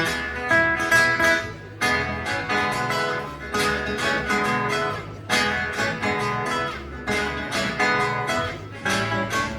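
A guitar ensemble playing an upbeat rock and roll tune, plucked melody over strummed chords and a steady bass pulse.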